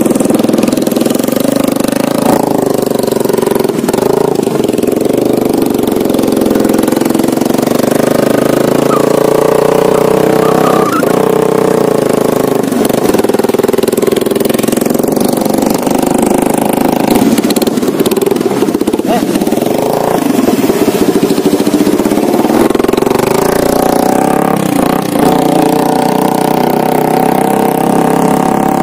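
Motorcycle engine running under way, its note rising and falling slowly as the throttle and speed change.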